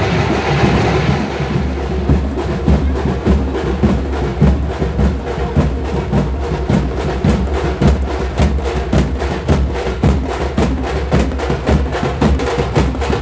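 Festival drumming: fast, steady percussion with many quick, even strokes. A rushing noise fades out in the first second or two.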